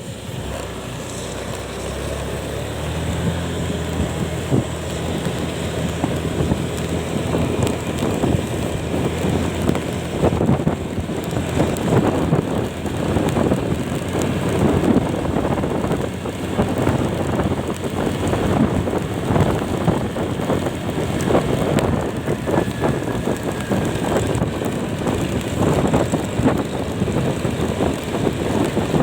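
Wind buffeting the microphone of a moving vehicle, gusting unevenly over a steady low engine drone. The engine is clearest in the first several seconds.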